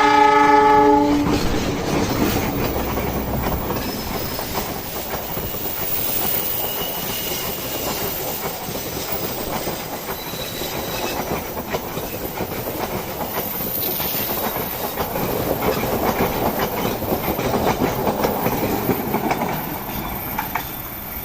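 A short horn blast from a CC206 diesel-electric locomotive ends about a second in, then a passenger train runs past close by: a steady rumble with wheels clattering over the rails and brief thin wheel squeals on the curving track.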